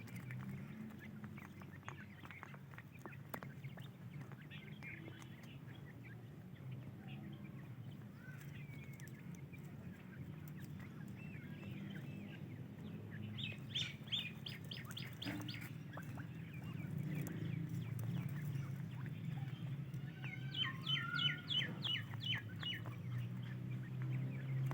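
Francolin (teetar) chicks calling: scattered short chirps, with two quick runs of about seven evenly spaced high notes, one about halfway through and one near the end, over a steady low hum.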